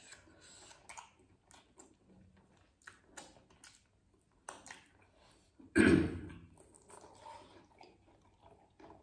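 Close-up mouth sounds of people chewing chicken momos, with scattered short clicks. About six seconds in comes a sudden loud burst, much louder than the eating.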